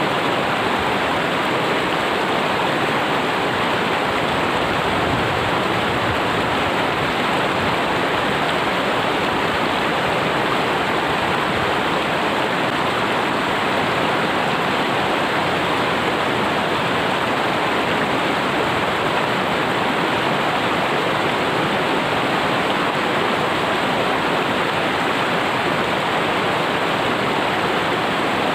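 River water rushing in a steady, unbroken stream, from a river running after rain.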